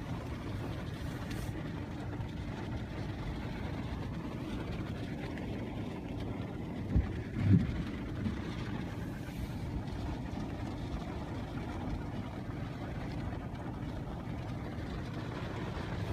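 Steady road and engine noise inside a moving car, with two brief low thumps about seven seconds in.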